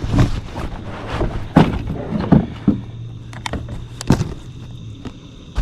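A handful of sharp knocks and clunks, some louder than others, from gear and a caught fish being handled in a kayak, over a low steady hum.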